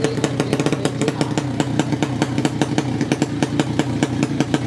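A 200cc horizontal-cylinder drag motorcycle engine running loud and rough on an open exhaust, with a fast, even crackle.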